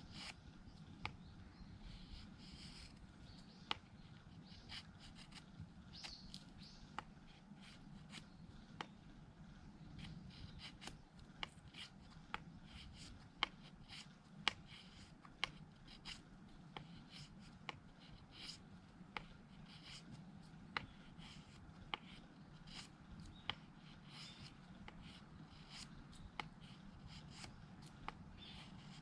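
Mora knife shaving thin curls from a wooden stick to make a feather stick: quiet, repeated scraping strokes, each marked by a sharp click, about once a second.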